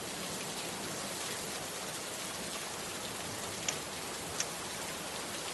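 Steady rain falling in an even hiss, with two sharper drop ticks a little past the middle, as a lovebird is bathed in the rain.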